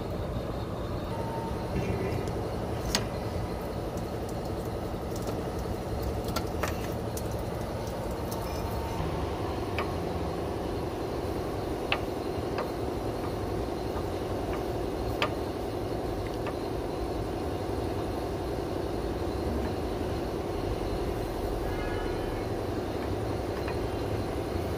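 Steady mechanical drone, like an engine running, with a few sharp clicks as push-lock fuel and vent line connectors on a fuel tank are released by hand.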